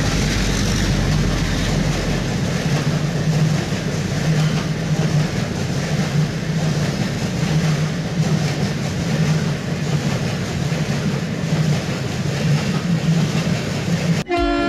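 A train running: a steady rumble and rolling noise with a throbbing low drone. A train horn starts to blow near the end.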